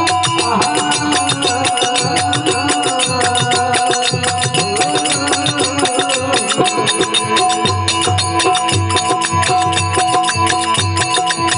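Rajasthani folk bhajan music: fast, even percussion strokes over a steady drone tone, with a gliding melody line through the first half that then stops.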